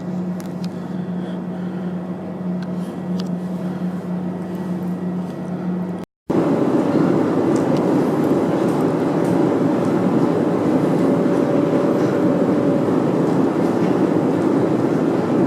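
Steady hum in the cabin of a parked Airbus A321-200, with a constant low tone from its ventilation and auxiliary power. About six seconds in, a cut leads to a louder, even rushing rumble of vehicle or aircraft noise.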